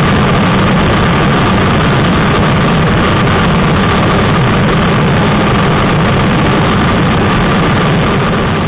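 Yamaha YZF-R3 motorcycle's parallel-twin engine running steadily at speed, under heavy wind rushing over the microphone.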